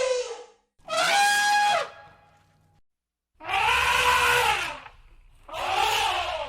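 Elephant trumpeting in a run of about four short, loud blasts, each arching up and down in pitch, with a brief silence midway.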